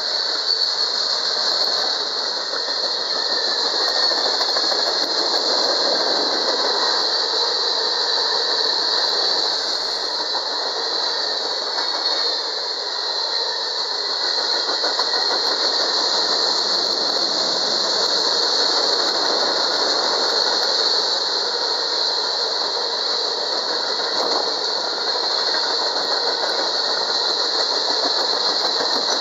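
Mixed freight train of tank cars and hopper cars rolling past close by: a steady rumble of steel wheels running on the rails, with a constant high hiss over it.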